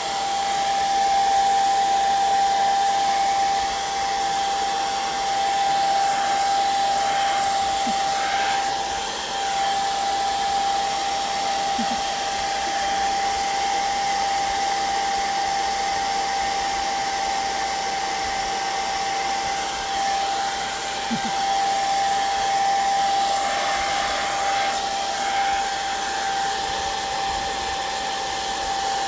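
Handheld hot-air dryer blowing steadily, a constant motor tone over the rush of air, drying wet paint and ink.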